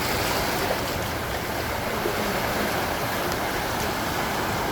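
Ocean surf washing over a rocky lava shoreline: a steady rush of water noise.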